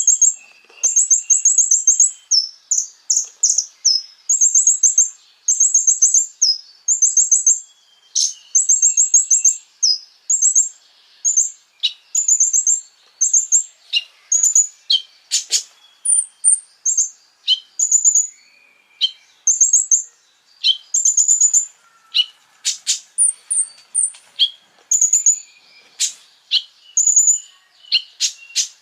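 Konin bird singing: short, high-pitched, rapid trilled phrases repeated about once a second, with sharp chip notes in between.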